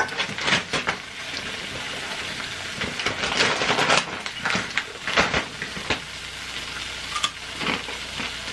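Melting cheese and snack mixture sizzling in an oiled frying pan while being stirred, with a few louder scraping strokes of the utensil against the pan.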